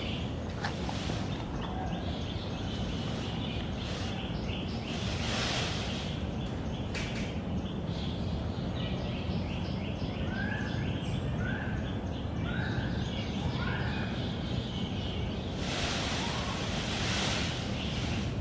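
Wind rumbling steadily on the microphone, with a few hissing gusts. Near the middle, a bird gives four short rising calls about a second apart.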